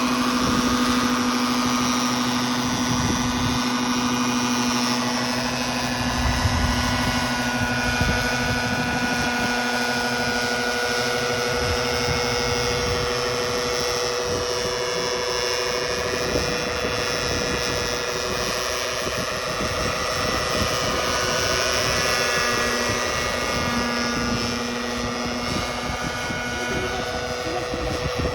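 Engine-powered radio-controlled scale helicopter running continuously, its engine and rotors holding a steady note that rises and falls slightly in pitch.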